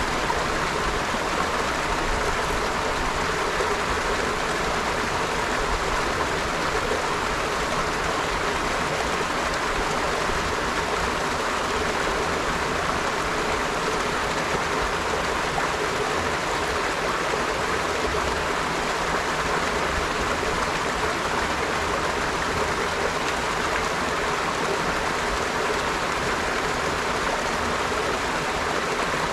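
River water flowing steadily over stones, a continuous even rushing and burbling with no breaks.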